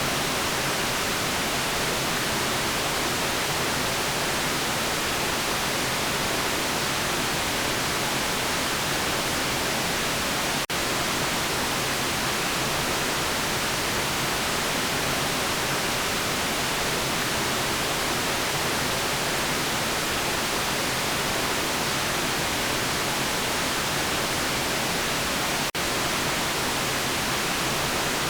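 Steady white noise: an even, featureless hiss strongest in the upper range, broken by two very brief dips in level about 11 and 26 seconds in.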